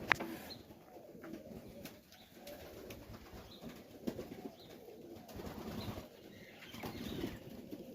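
Domestic pigeons cooing softly and repeatedly, with one sharp click right at the start.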